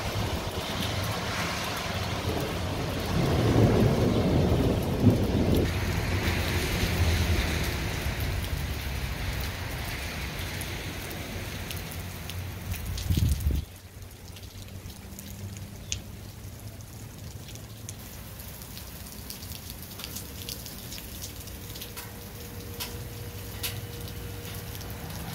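Rain falling in a thunderstorm, with a low rumble of thunder a few seconds in. About halfway through the sound drops off sharply to lighter rain with scattered drops ticking.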